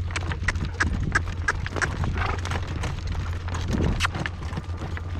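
A horse's hooves clip-clopping on a dirt road in an even rhythm, about three hoofbeats a second.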